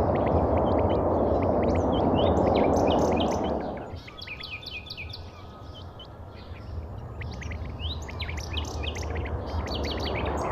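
Small birds chirping rapidly and repeatedly over a loud rushing roar; the roar drops away sharply about four seconds in and then slowly swells back.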